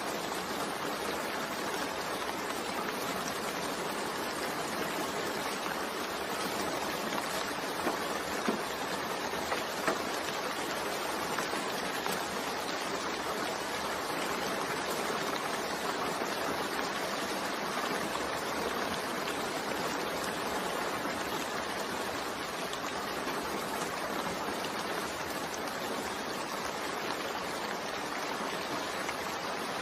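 Continuous rain mixed with white noise: an even, steady hiss of falling water, with a few slightly louder drop sounds about eight to ten seconds in.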